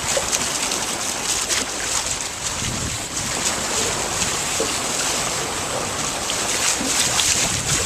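Steady rush of wind and water around a sailboat under sail, with wind buffeting the microphone.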